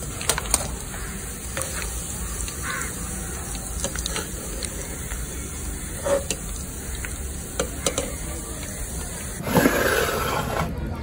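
Food frying in hot oil with a steady sizzle, while a ladle stirs and clinks against the pan. There is a louder burst of noise near the end.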